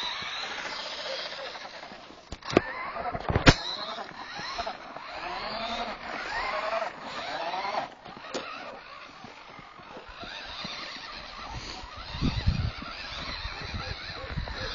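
Battery-powered toy car's small electric motor whining, its pitch rising and falling as it speeds up and slows, with a couple of sharp knocks in the first few seconds and low rumbling near the end.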